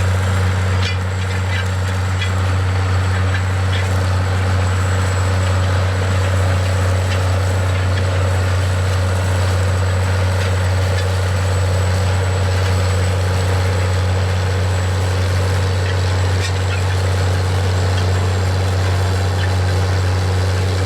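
Large tractor's diesel engine running steadily at an even pitch, a deep unchanging drone.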